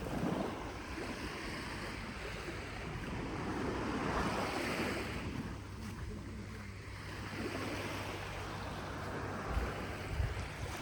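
Sea waves washing onto a beach, the surf swelling and ebbing, with wind rumbling on the microphone.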